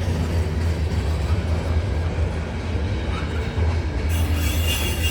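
Freight train rolling past with a steady low rumble of wheels on rail. Higher-pitched wheel noise joins about four seconds in.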